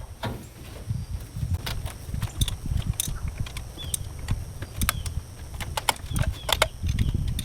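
Wind buffeting the microphone as a gusty low rumble, with scattered sharp clicks and taps throughout.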